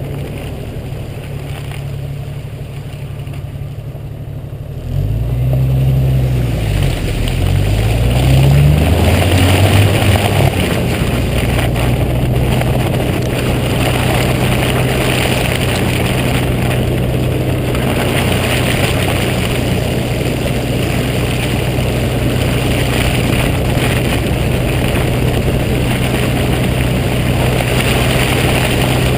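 Jeep Cherokee XJ engine pulling away. About five seconds in it gets louder and its pitch rises and drops a few times as it accelerates through the gears, then it settles into a steady drone under the hiss of tyres on the snowy road.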